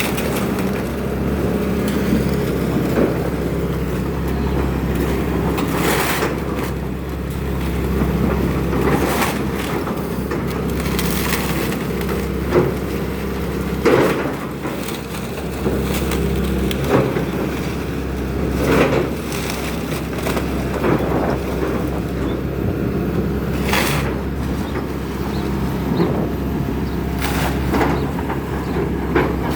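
Excavator's diesel engine running steadily while it tears into a wooden house, with repeated cracking, splintering and crunching of timber at irregular moments.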